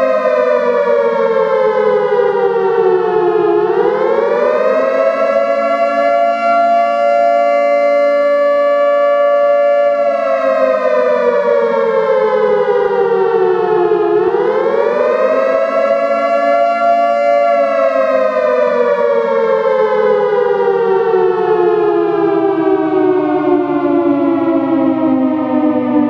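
Nuclear emergency warning siren wailing. Its pitch slides slowly down, then rises quickly and holds steady for several seconds before sliding down again, twice, and is falling at the end.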